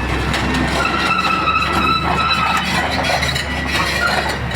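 Excavator at work: a high whine starts about a second in and lasts under two seconds, over a run of metallic clinks and knocks.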